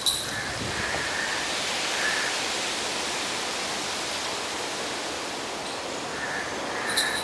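Steady rain falling, an even hiss, with a sharp tick near the start and another near the end.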